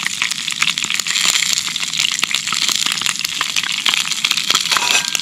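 Sausages frying in a pot, a steady sizzle thick with small crackling pops.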